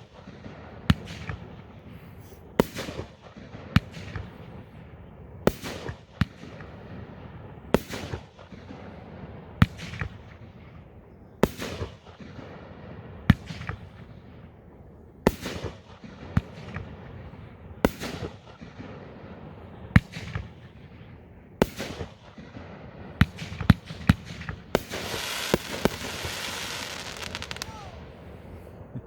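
A 500-gram, 12-shot Pyrodemon aerial fireworks cake of about inch-and-a-quarter bore firing its shots one after another, with a sharp bang about every two seconds. Near the end comes the crackling palm finale: several seconds of dense crackling.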